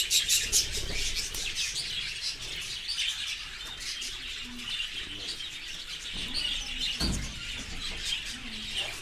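A flock of budgerigars chattering and chirping continuously, busiest at the start. A brief low thump comes about seven seconds in.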